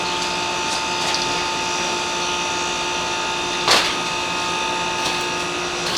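A small electric motor running steadily with a whine, with a brief knock about two-thirds of the way through; it stops right at the end.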